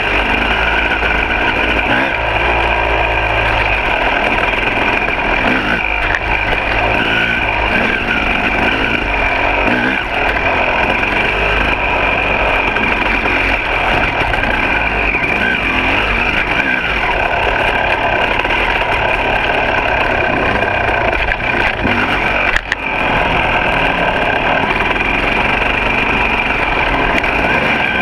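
Two-stroke dirt bike engine running on a trail ride, its revs rising and falling with the throttle. There is one brief sharp knock about three-quarters of the way through.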